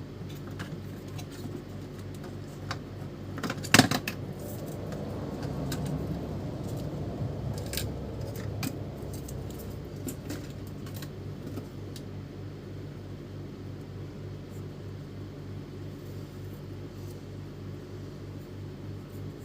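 Clicks and light metallic clatter of small parts and tools being handled during work on an inkjet printer, with a sharp click about four seconds in, over a steady low hum.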